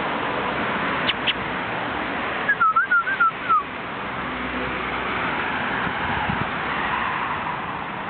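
Miniature schnauzer puppy whining: one short, wavering high whine lasting about a second, over steady background noise, with two faint clicks shortly before it.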